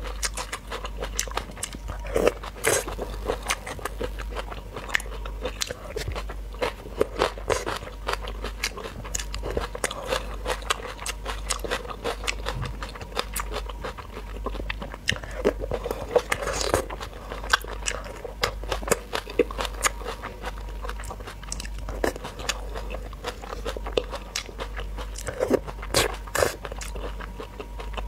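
Close-miked mouth sounds of eating spicy raw shrimp with crisp cucumber and pepper salad: steady wet chewing and crunching, full of small sharp clicks, with several louder crunchy bites scattered through.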